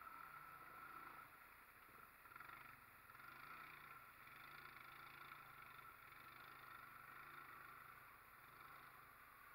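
Honda Rancher ATV engine running faintly, its low note wavering a little as the throttle changes.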